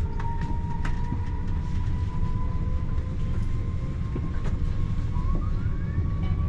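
TER regional train running, heard from inside the carriage: a steady low rumble with scattered faint clicks, and a whine that slowly rises in pitch. A second short whine glides upward about five seconds in.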